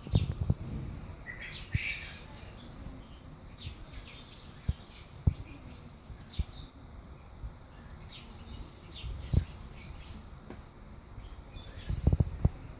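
Fischer's lovebird chick chirping, short high chirps coming on and off. Low knocks and thumps of handling are heard at the start, a few times in the middle, and in a cluster near the end.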